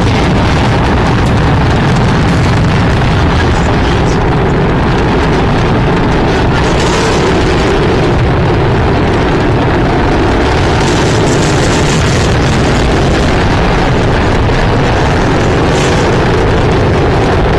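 Rocket engines running during a launch: a loud, steady roar that holds without a break.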